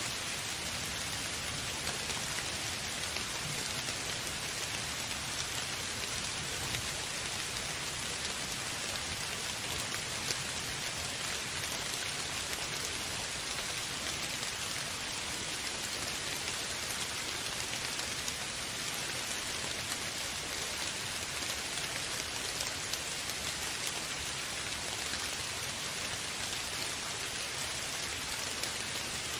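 Steady rain falling on a surface, an even hiss with scattered patter of drops.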